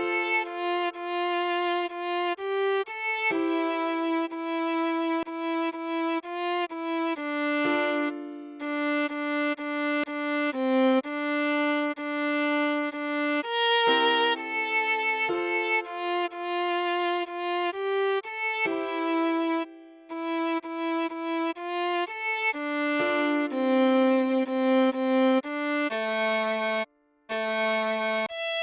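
Solo viola playing a slow melody of separate held notes, one at a time, with a few short pauses between phrases.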